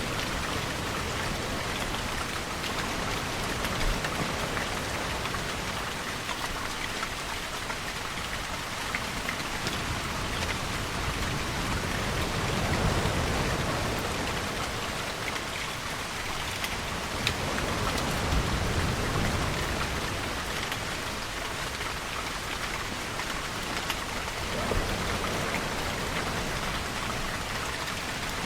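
Steady heavy rain: a dense, even hiss with scattered drop ticks. It swells lower and louder twice, past the middle and again a few seconds later.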